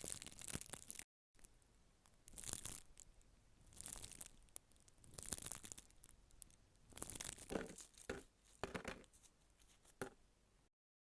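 Close-miked crinkling and rustling in about six separate bursts, with a brief dead-silent cut about a second in.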